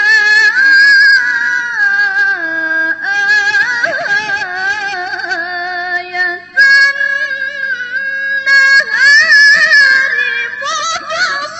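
A young woman's voice reciting the Quran in melodic tilawah (mujawwad) style. She holds long, drawn-out notes with wavering ornamental turns and steps down in pitch, then starts a new phrase about six and a half seconds in.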